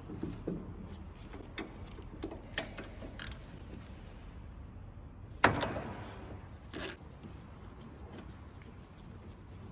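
Hand tools and metal parts clicking and knocking during work on a steering column, with one loud metallic clank about five and a half seconds in that rings briefly, and a smaller knock a little over a second later.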